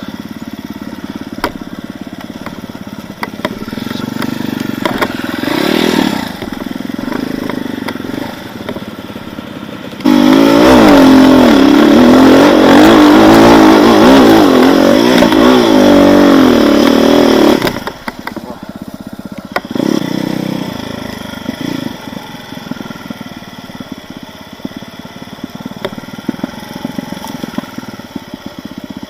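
Enduro motorcycle engine running at low revs, then revving hard for about eight seconds from about ten seconds in, its pitch wavering up and down, before dropping back to low revs.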